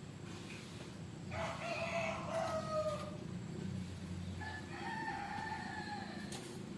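Two long, pitched animal calls, the first starting about a second in and the second past the middle, each lasting well over a second.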